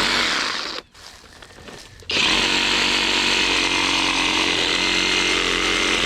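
Skil brushless cordless reciprocating saw cutting through a tree branch. It stops just under a second in, then starts again about two seconds in and runs steadily.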